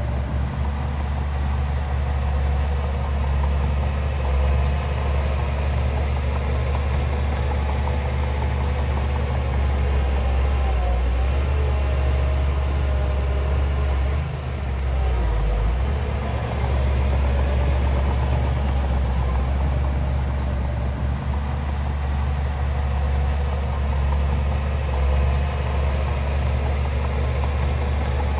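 Heavy diesel engine of earthmoving equipment running steadily with a deep, low hum, briefly dipping about halfway through.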